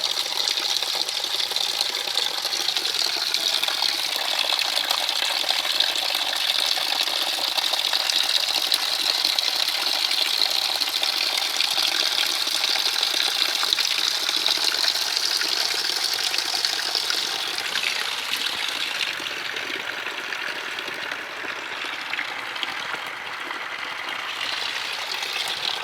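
Heavy rain falling in a steady, dense patter, easing slightly in the last several seconds.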